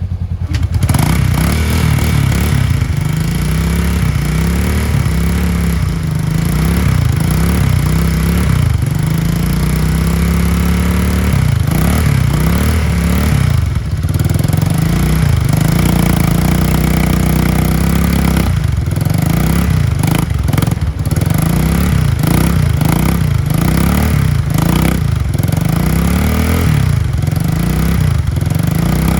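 Motorcycle engine running after a kick start, its speed repeatedly rising and falling as it is revved or runs unevenly while warming up.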